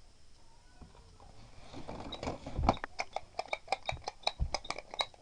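A quick run of light clicks or taps, about three to four a second, starting about a second and a half in.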